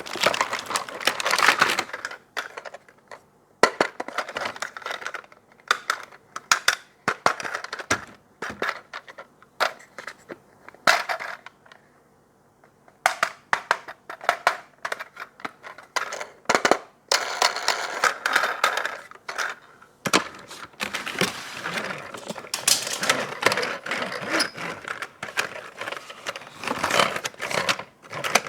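Toy packaging being handled and opened: a quick run of sharp clicks and taps on plastic with bursts of crinkling, broken by a short near-quiet pause about twelve seconds in.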